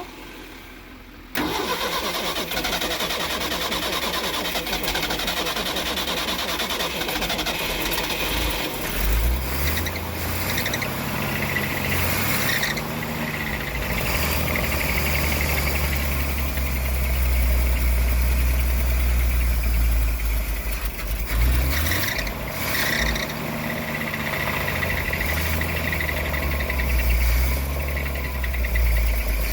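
1966 Ford F500's industrial 240 inline-six starting about a second in and then running, its speed rising and falling again and again from about nine seconds in. The engine does not like to idle, which the owner puts down to its carburetor.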